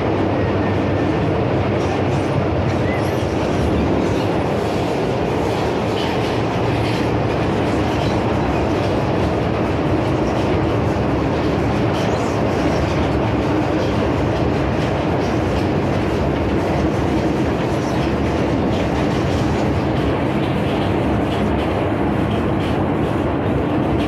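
MTR M-Train electric multiple unit running at speed, heard from inside the passenger car: a steady rumble of wheels on rail with faint, irregular clicking.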